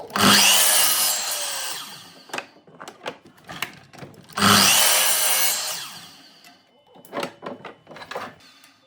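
A handheld power tool working wood in two short bursts a few seconds apart, each starting suddenly and dying away as the tool winds down. Light knocks and clicks of handling come between and after the bursts.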